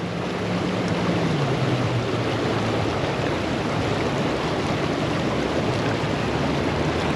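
River water rushing steadily, with a faint low hum underneath that drops in pitch about a second in.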